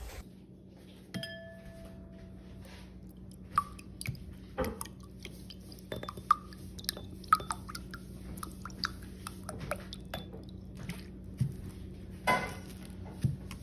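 Scattered clinks and taps of a bowl and utensils, with a few drips, as lemon juice is poured and squeezed into the bowl. A steady low hum runs underneath.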